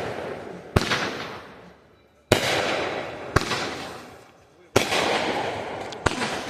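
Fireworks going off: five sharp bangs about one to one and a half seconds apart, each trailing off over a second or more.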